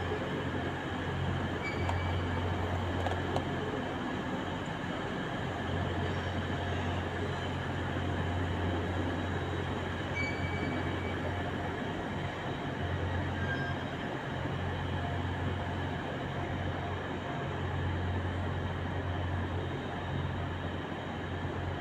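Railway station ambience: the steady hum and rumble of trains standing at the platforms, with a low drone that drops out now and then and a few faint, brief high tones.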